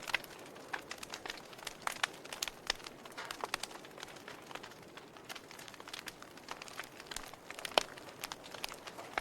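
Wood fire burning in a fireplace: a soft steady hiss with irregular sharp crackles and pops of burning logs, the loudest single pop about three-quarters of the way through.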